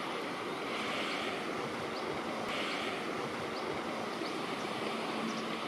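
Outdoor riverside ambience: a steady rushing background noise, with faint, short, high bird chirps repeating about once or twice a second.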